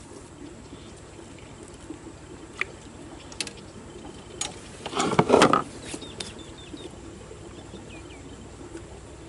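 Quiet outdoor ambience with faint bird chirps and a few sharp clicks. A brief burst of rustling and knocking comes about five seconds in.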